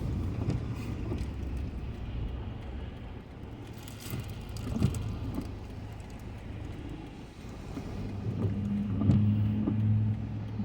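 A motor vehicle driving, with a steady low engine and road hum. Near the end the engine hum grows louder for about two seconds.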